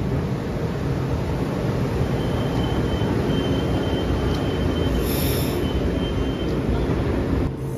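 Shore Line East electric commuter train cars rolling slowly alongside the platform as the train pulls into the station, a steady rumble of wheels on rail. A faint high wheel squeal runs through the middle, with a short hiss about five seconds in; the rumble drops suddenly near the end.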